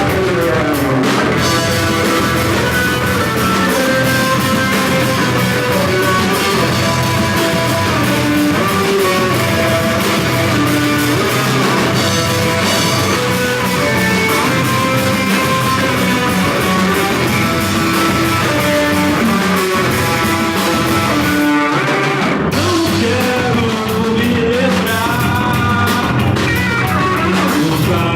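Live rock band playing a song, with electric guitar and drum kit at a steady level; the full sound breaks off for a moment about three quarters of the way through, then comes back.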